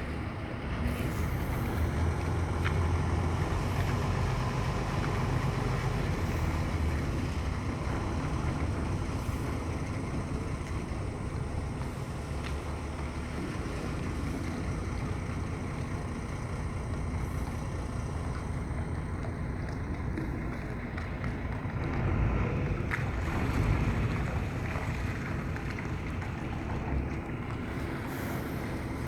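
Boat engine running steadily at low speed while the boat is manoeuvred alongside, with wind buffeting the microphone and water noise; the sound swells briefly about two-thirds of the way through.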